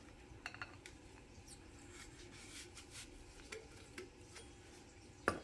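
Faint scraping and small clicks as rings are worked off a disassembled Bilstein shock absorber, with one sharper click just before the end.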